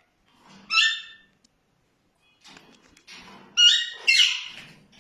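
Alexandrine parakeets squawking: one harsh call about a second in, then two more close together near the end.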